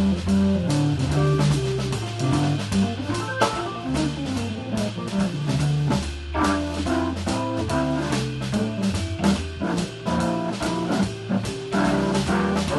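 Live jazz organ trio playing: electric guitar lines over an organ bass line and a drum kit with cymbals.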